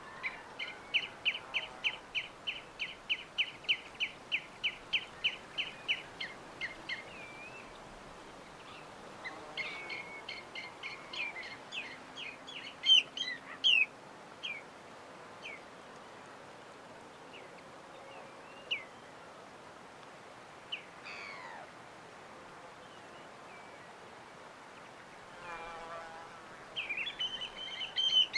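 Birds chirping: a quick run of repeated chirps, about four a second, for the first six seconds, then scattered calls and short phrases, over a faint steady hiss of background noise.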